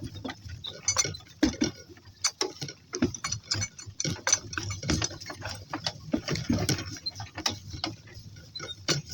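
Irregular clicks, knocks and soft thuds of walking: footfalls of a person and donkeys moving along together.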